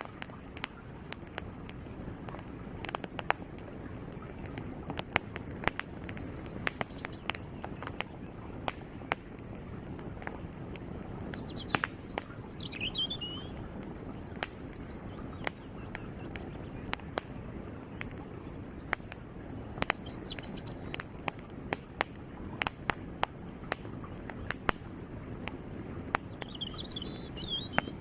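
Wood campfire crackling with frequent sharp pops over the steady rush of a flowing creek. Short bursts of high bird chirps come through four times.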